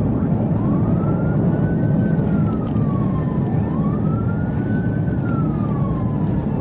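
Police car siren in wail mode: two slow cycles, each rising, holding and then falling. Heavy steady low engine and road noise runs beneath it.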